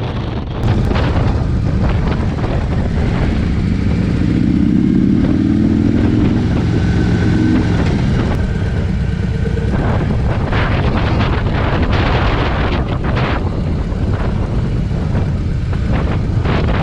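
Harley-Davidson V-twin motorcycles riding at speed, the engine running steadily, with its note climbing in pitch between about four and eight seconds in as it accelerates.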